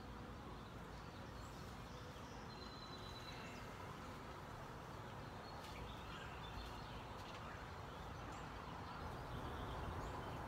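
Steady hum of honeybees around an open hive, with a few faint bird chirps.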